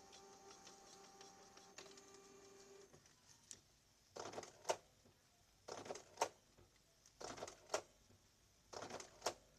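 Canon G2000 inkjet printer running, its dried carriage grease replaced with white grease. A steady motor whir with fine ticking lasts about three seconds, then the print-head carriage makes short passes about every second and a half, each ending in a click.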